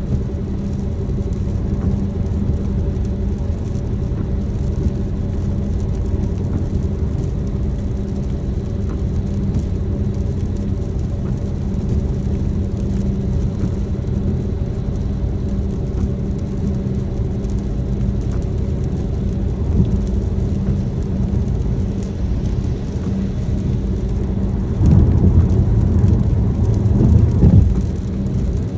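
A car driving in the rain, with a steady low rumble of engine and road noise and a light hiss of rain. Near the end a louder rush swells for a few seconds, then drops back.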